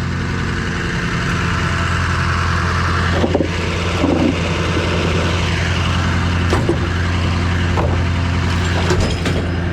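Engine idling steadily, with a few short knocks and clinks over it.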